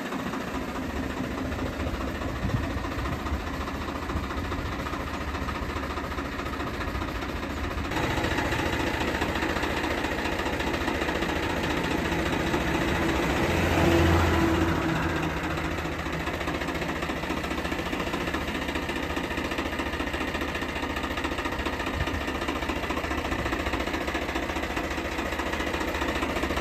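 Diesel tractor engine running steadily at idle. It gets a little louder about eight seconds in and picks up briefly around fourteen seconds before settling back.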